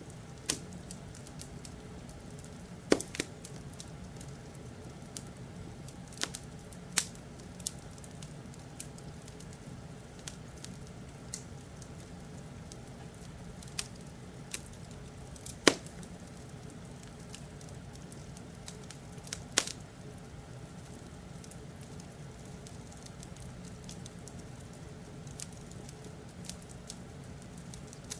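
Wood fire crackling in a fireplace: irregular sharp pops and snaps over a steady low rumble, with a handful of much louder pops.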